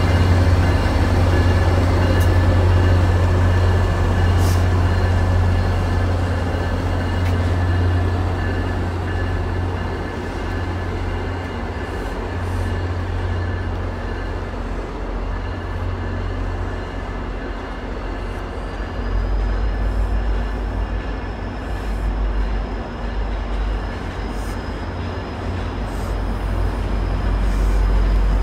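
MBTA commuter rail train rolling slowly past behind its diesel locomotive, the engine giving a steady low drone as the coaches go by. A few sharp clicks and clanks from the wheels and cars come through.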